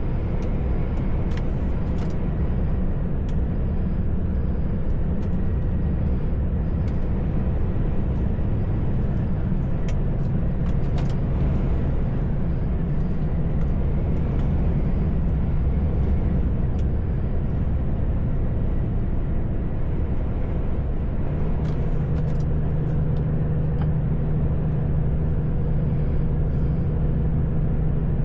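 Truck's diesel engine running steadily under way, with road noise; the engine note shifts to a higher steady hum about 21 seconds in. A few scattered sharp clicks.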